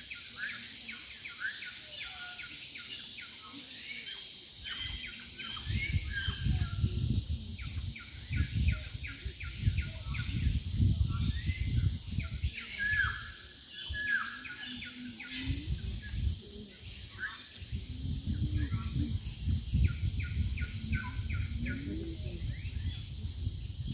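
Several wild birds chirping and calling in quick, repeated short notes, with a steady high hiss behind them. A low rumble comes in about five seconds in, drops away for a few seconds in the middle, and returns.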